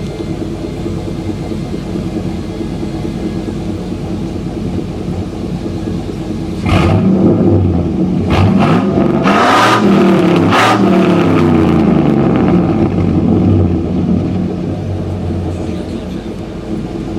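2001 Chevrolet Silverado 1500 pickup with a catless exhaust idling, then revved up and down several times from about seven seconds in before settling back to idle.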